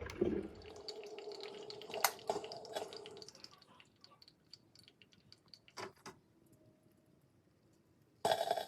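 Mr. Coffee iced coffee maker brewing, coffee dripping with many small clicks and ticks. A steady hum stops about three seconds in, and a short loud burst of noise comes near the end.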